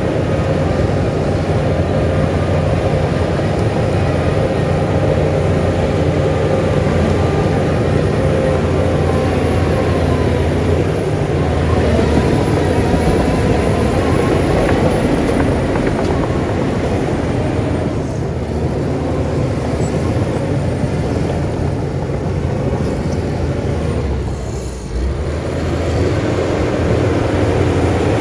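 Heavy diesel earthmoving machinery running steadily with a dense, loud low rumble, dipping briefly in level near the end.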